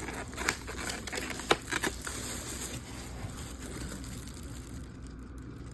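Rustling and crinkling of takeout food packaging being handled, with sharp clicks about half a second, one and a half and nearly two seconds in; the rustle dies away after about three seconds, leaving a low hum.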